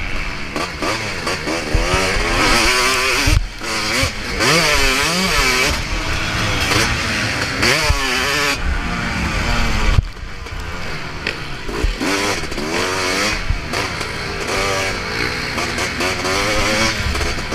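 Motocross bike engine ridden hard, its revs rising and falling again and again through gear changes and throttle. There is a sharp knock about ten seconds in.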